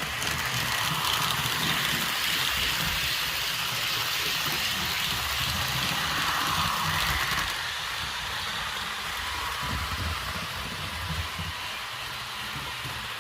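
Model TGV train running along the track: a steady rolling hiss of wheels on rail with a low motor rumble. It is louder for the first half and then eases off as the train moves away.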